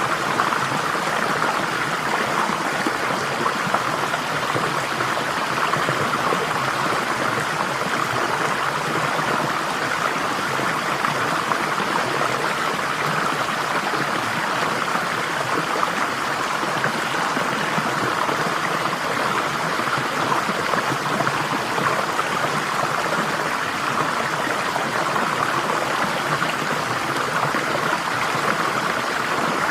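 Flowing water, a steady, unbroken rush with no separate splashes or drips standing out.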